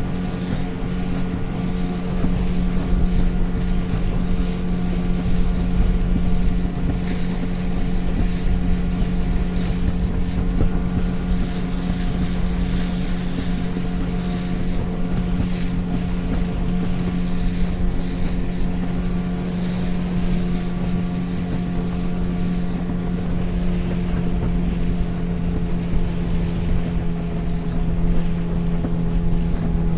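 Motorboat under way at steady cruising speed: the outboard engine holds a constant drone while hull and water noise rush beneath it. Wind buffets the microphone. Near the end the engine note drops slightly.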